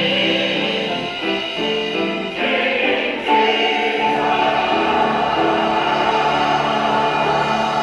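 Church choir singing the closing phrase of a cantata. About three seconds in, the voices settle onto sustained notes and hold them.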